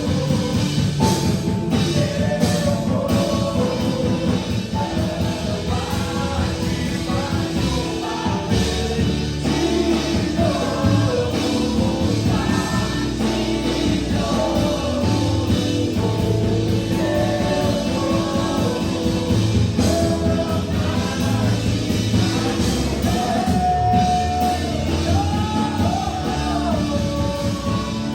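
Upbeat worship music from a rock-style band, with drums, bass and guitar under a sung melody, kept steady and loud throughout.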